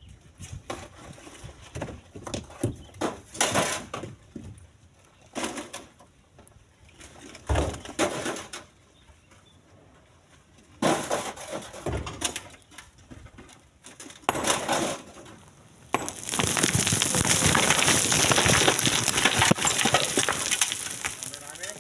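Split stones knocking and clattering as they are heaved by hand into a truck bed, in scattered separate strikes, followed near the end by about five seconds of continuous loud rushing clatter.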